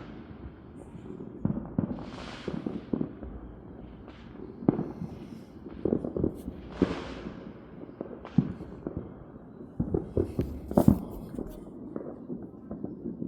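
Fireworks and firecrackers going off all around in irregular bangs, the loudest a few seconds before the end, with two longer hissing swells between them.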